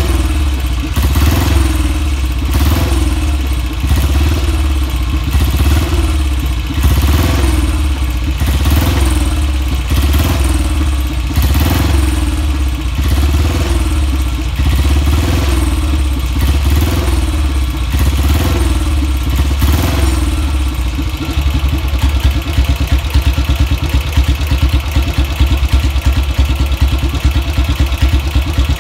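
BSA Gold Star DB32's 350 cc single-cylinder pushrod engine running after its first start in years, the throttle blipped so the revs rise and fall about once a second. About three quarters of the way through it settles into a steady, even idle.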